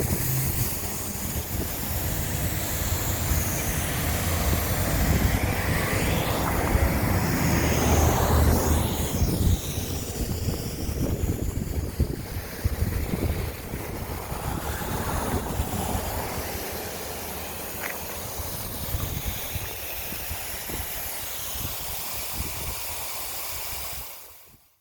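Rumbling outdoor noise with a hiss above it, swelling to a peak about eight seconds in and then easing off, before fading out just before the end.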